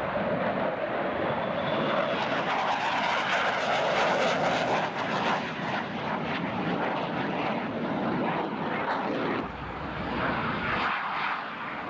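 Airplane engine noise from an aircraft passing in a flyby, building to its loudest about four seconds in and then easing off.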